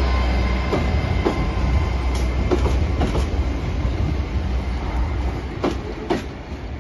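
GWR Class 800 IET bi-mode train rolling slowly past on its underfloor diesel engines, with a steady low hum. Its wheelsets clack over rail joints in pairs about half a second apart, three times, and the sound fades slightly near the end.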